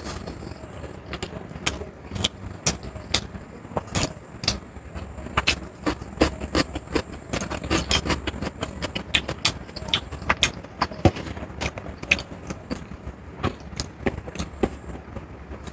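Close-up eating sounds of someone chewing a meal of chicken biryani: irregular wet clicks and smacks of the mouth, several a second, over a low background rumble.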